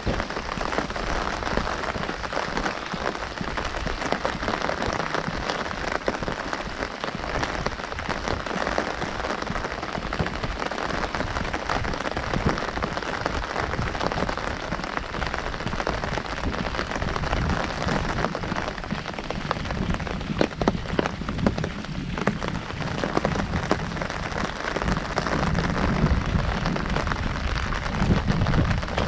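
Heavy rain drumming steadily on an umbrella canopy, a dense patter of countless drops. A low rumble rises under it near the end.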